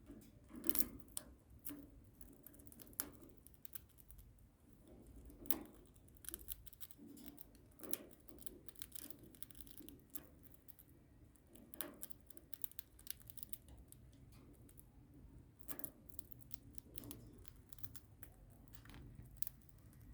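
Cockatiels crunching cornflakes with their beaks: irregular crisp snaps and cracks at an uneven pace, a few louder ones among them.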